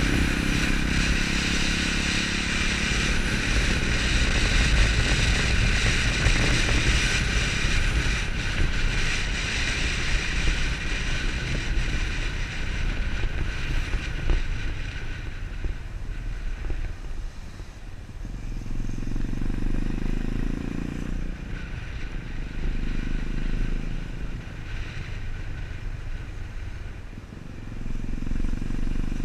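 Motorcycle running while being ridden, with heavy wind rush and rumble for the first half. In the second half the wind drops and the engine note swells up three times as it pulls away or accelerates.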